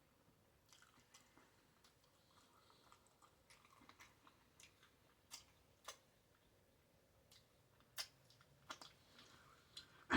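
Faint chewing of a bacon cheeseburger, with scattered sharp wet mouth clicks and smacks, a few louder ones in the second half.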